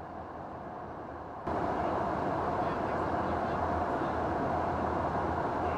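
Steady drone of aircraft engines, with a held tone over a low hum, jumping suddenly louder about one and a half seconds in.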